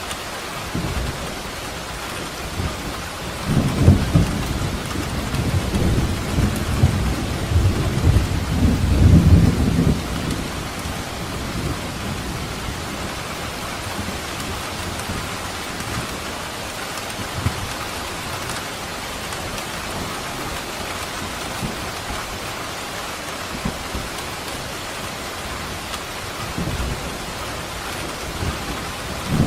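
Steady rain falling, with a low rolling rumble of thunder from about three to ten seconds in, and another rumble starting near the end.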